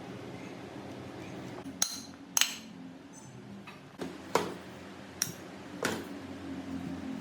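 About six sharp metallic clinks and knocks over four seconds, a few ringing briefly, over a low steady hum: metal parts being struck or handled.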